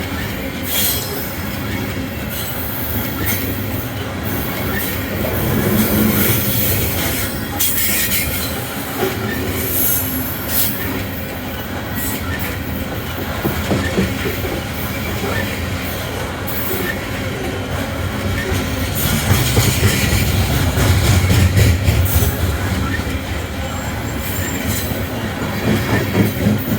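Loaded BNSF coal train rolling past, steel wheels running on the rails with scattered short clicks and high squeals. The low rumble swells about two-thirds of the way through.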